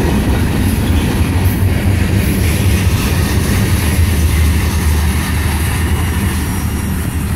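Freight train of covered hopper cars rolling past at close range: a loud, steady rumble of steel wheels on rail.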